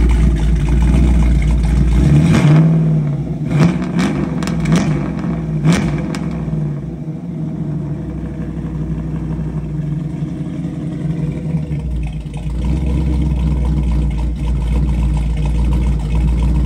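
Camaro Z28's engine running through its exhaust, revved a few times between about two and six seconds in, then settling back to a steady idle.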